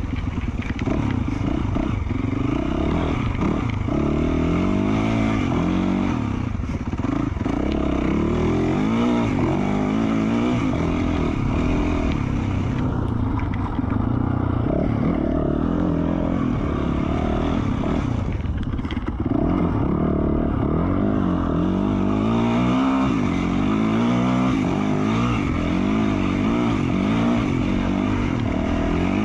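2020 Yamaha YZ450F's single-cylinder four-stroke engine, fitted with an FMF Q4 slip-on exhaust, revving up and down repeatedly as the dirt bike is ridden along a trail, its pitch rising and falling every second or two.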